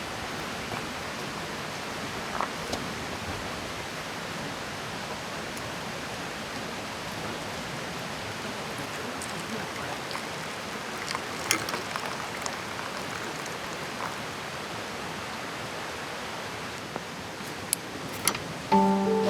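Steady rushing of a mountain river, with a few sharp clicks about eleven seconds in and again near the end.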